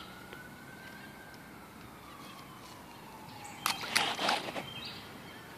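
Distant siren wailing faintly, its pitch rising and then slowly falling. About two-thirds of the way through, a short run of splashes from small feet stepping in a rainwater puddle.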